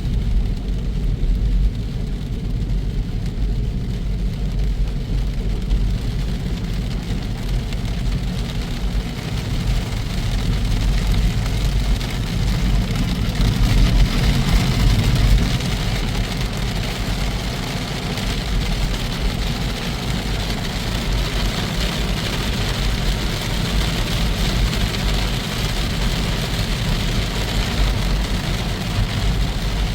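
Scania truck driving along, its engine running as a steady low rumble with road noise, and a hiss that grows stronger about halfway through.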